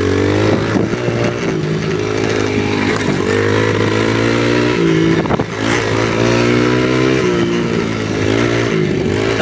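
Off-road vehicle engine running under throttle while riding, its revs rising and falling repeatedly, with short drops in revs about five seconds in and again near the end.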